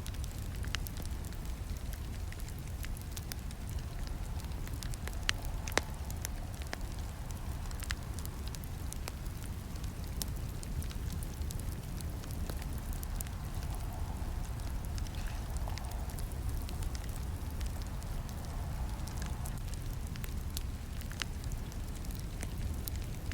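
Campfire burning, with irregular crackles and sharp snaps over a steady low rumble of the flames; the sharpest snap comes about six seconds in.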